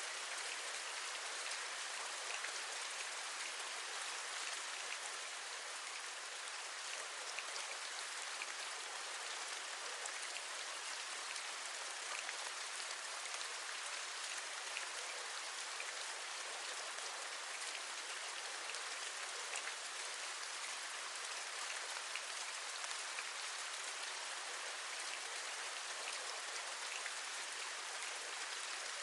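Steady rain, an even hiss with scattered small drop taps, as of raindrops on a window.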